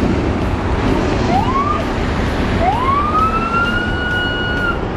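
Train horn sounding two blasts, a short one and then a long one, each sliding up in pitch as it starts before holding steady, over a steady low rumble.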